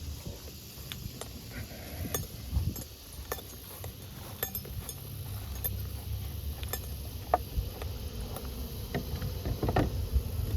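Light clicks and knocks scattered through, from handling plastic beehive frames, over a low steady rumble.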